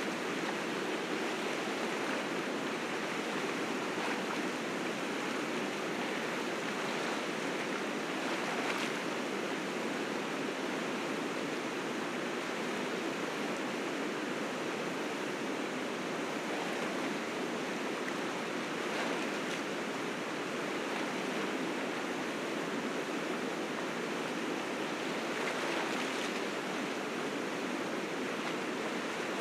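River rapids rushing, a steady roar of fast white water swollen with spring snowmelt, with brief surges now and then.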